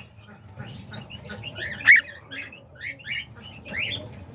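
A flock of small pet parrots chirping and squawking in a busy stream of short, quick calls, with one louder sharp call about two seconds in.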